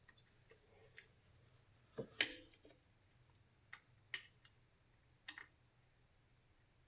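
Scattered light clicks and knocks of hand tools and sockets being handled during work on a nut, the loudest about two seconds in.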